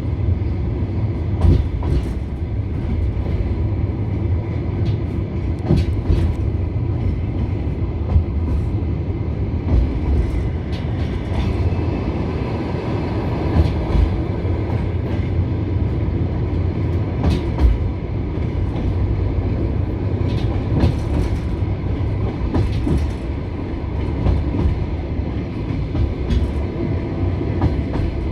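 Passenger train running, heard from inside the carriage: a steady wheel rumble with irregular clicks and knocks as the wheels pass over rail joints.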